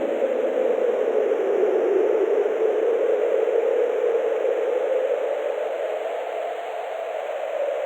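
Wind sound effect: a steady, rushing hiss without any clear tone, slowly swelling and easing, dipping a little past the middle before building again.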